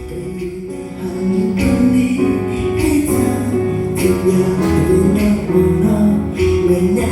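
Upbeat pop song with a steady beat and bright jingling percussion, a voice singing the melody over it.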